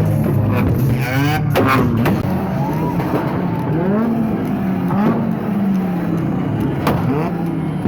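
Car engines revving up and down again and again, their pitch rising and falling, loud.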